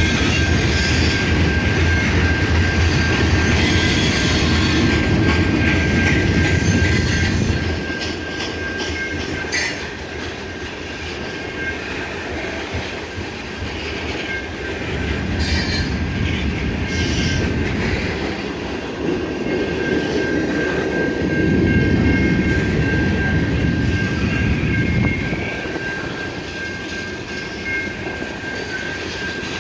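Freight cars of a long mixed freight train rolling past: a steady rumble and clatter of steel wheels on the rails that eases after about seven seconds and swells again twice later on. A thin, steady high-pitched tone runs through it all.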